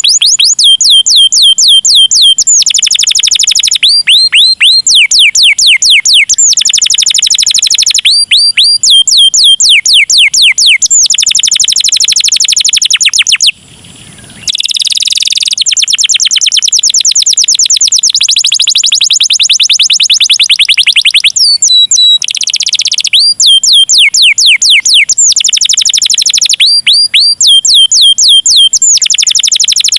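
Domestic canary singing a loud, continuous song of trills: fast runs of the same sweeping high note repeated many times a second, switching to a new note type every second or two, with one short break about halfway through.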